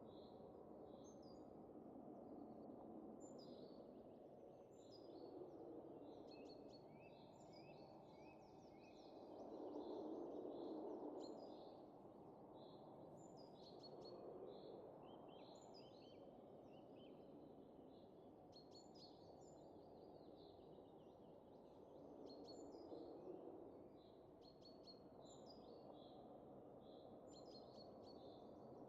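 Faint, soft wind that swells in gentle gusts, strongest about ten seconds in, under a steady scatter of small bird chirps and twitters.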